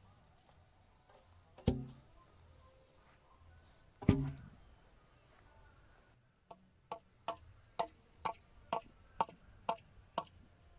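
Hammer blows on fence timber: two heavy thuds, then a run of about nine quick, sharp strikes, about two a second, like a nail being driven into wood.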